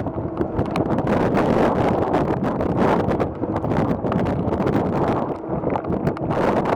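Wind buffeting the microphone: a rough, low rumbling noise that swells and dips with the gusts.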